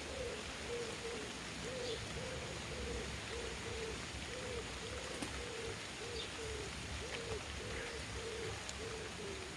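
A dove cooing: a long run of short, low, evenly spaced coos, about two a second, with a few faint high chirps from small birds.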